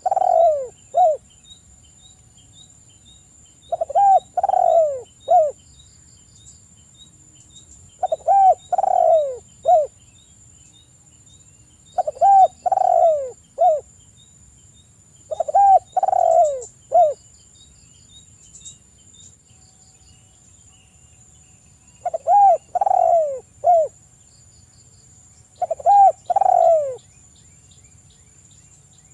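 Spotted dove (tekukur) cooing: phrases of three or four descending coos, repeated about every four seconds, seven times, with a longer pause about halfway. Faint rapid high chirping and a steady high-pitched whine run underneath.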